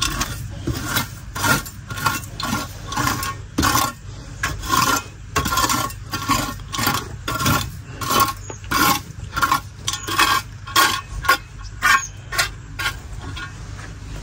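Repeated scraping strokes of a small hand tool dragged over a dirt-and-grit floor, about two a second, scraping droppings and food waste together as the aviary floor is cleared; the strokes grow weaker near the end.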